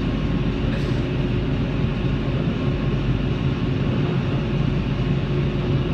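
Steady low mechanical hum and rumble heard from inside a car's cabin, with no distinct knocks or changes.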